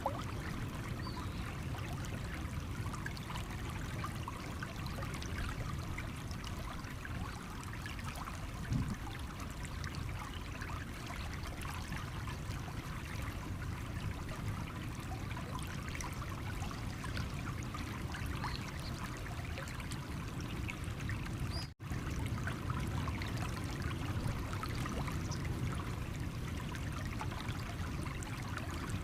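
A stream running over stones: a steady rush of water with many small trickles and splashes. The sound cuts out for an instant about three-quarters of the way through.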